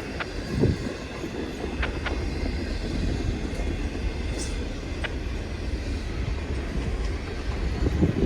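CN freight train rolling past: a steady low rumble of railroad cars on the track, with a few sharp wheel clicks and a brief high wheel squeal midway.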